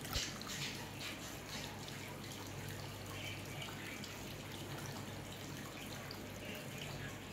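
Water trickling and dripping steadily down a small tiered waterfall of stacked flower-pot aquariums, with a low steady hum underneath.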